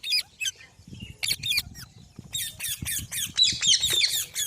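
Green parrot squawking in a run of short, sharp screeches: a few spaced calls at first, then coming thick and fast from about two seconds in.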